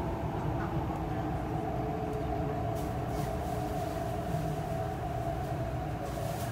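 Hyundai Rotem R-train electric multiple unit running steadily, heard from on board: a constant low rumble of wheels and car body with a steady motor whine, neither rising nor falling.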